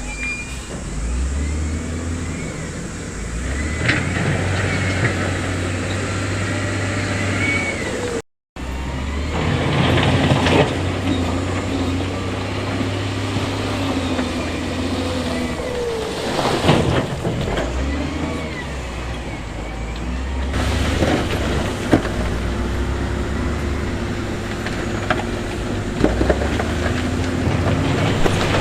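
Diesel engines of a wheel loader and dump trucks running steadily while stone is moved, with a few knocks and scrapes of rock. The sound cuts out briefly about eight seconds in.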